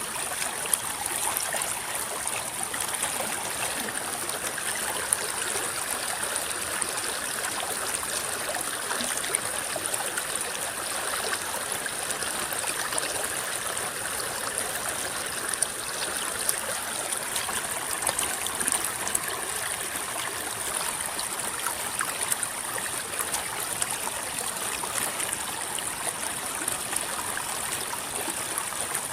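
River water rippling and babbling steadily, with many small splashes and drips, and a steady high-pitched hiss above it.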